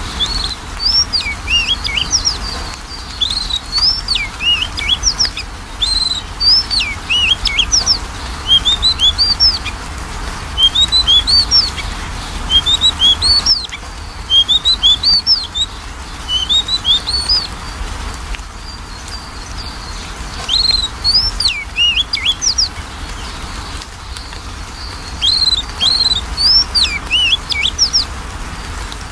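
Oriental magpie-robin (kacer) singing: phrases of quick sweeping whistled notes, each a few seconds long with short pauses between, over a steady low hum.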